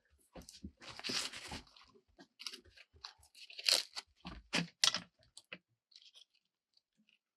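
Close, irregular crunching and tearing, with a dense ripping stretch about a second in and several sharp snaps around the middle.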